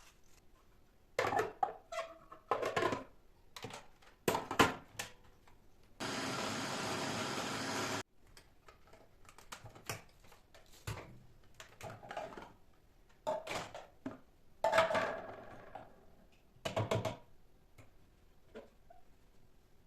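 Kitchen work sounds: scattered clicks, knocks and clatter of utensils and containers being handled, with a small electric motor, like a blender's, running for about two seconds and stopping abruptly.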